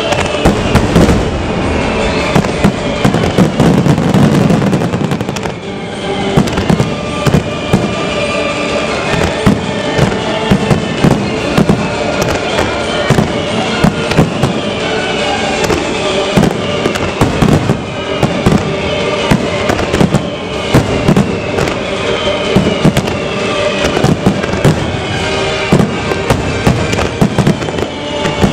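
Fireworks finale: a dense, rapid barrage of shell bursts and crackling, with repeated falling whistles and music playing underneath.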